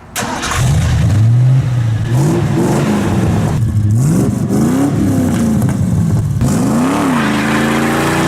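Ducati 848 Evo's L-twin engine starting up at the very beginning, then revved several times with the pitch rising and falling, before it settles to a steadier, higher idle near the end.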